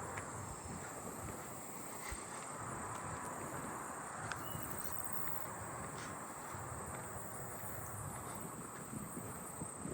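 Faint insect chorus with a steady, unbroken high-pitched trill, agile meadow katydids singing among it, with a few small ticks.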